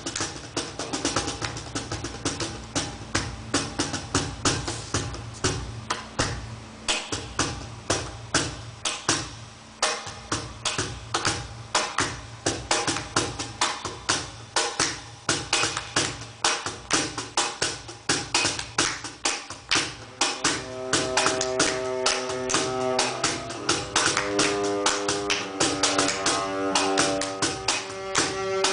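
Live percussion playing a fast, steady rhythm of drum strikes. About two-thirds of the way through, cello notes join in.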